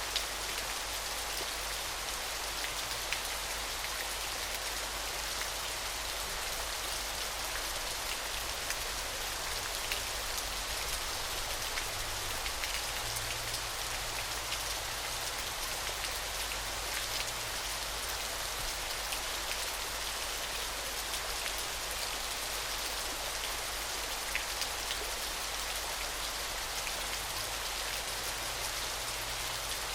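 Steady hiss of falling water, even and unbroken, with a few faint scattered ticks.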